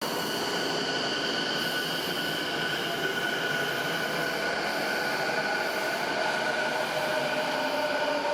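Subway train running through a station, a steady rumble with several high steady tones over it; lower tones shift in pitch near the end.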